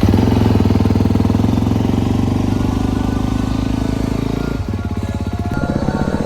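Dirt bike engine that has just caught after a hard start, running with rapid firing pulses. About four and a half seconds in its note drops and changes as the throttle eases.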